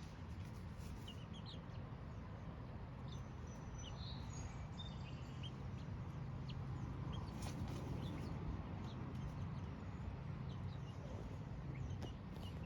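Chickens giving scattered short, soft chirps and clucks while dust bathing, with brief rustling in the dirt over a steady low rumble.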